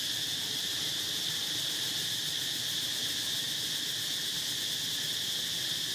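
Steady insect chorus: a continuous high-pitched shrill that holds an even level without breaks.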